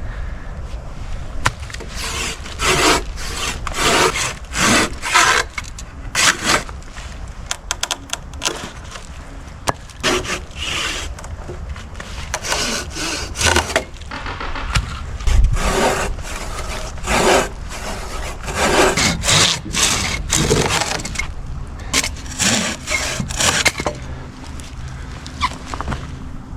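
Hand saw cutting through dry deadwood for firewood, in runs of back-and-forth strokes broken by short pauses.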